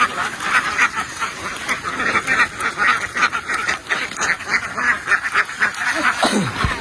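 A large flock of domestic ducks quacking nonstop, many overlapping calls at once. Near the end a short sound sweeps downward in pitch.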